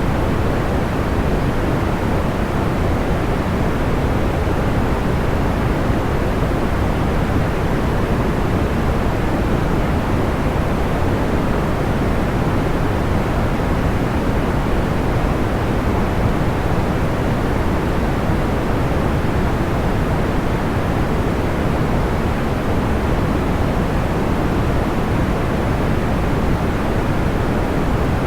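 Steady, deep-toned white noise, an even hiss-rumble with no breaks, pops or changes.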